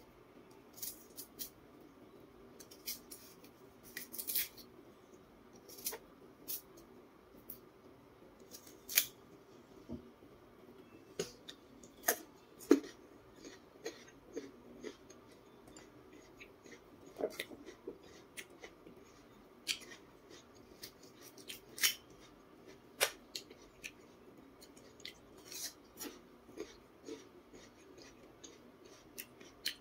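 Raw jicama being crunched and chewed close to a clip-on microphone: irregular sharp, crisp crackles and clicks, a few every second or two, with a knife scraping off the peel near the start.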